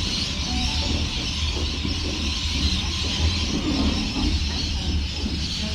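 Electric passenger train running past a station platform, a steady low rumble with a hiss of wheels and air.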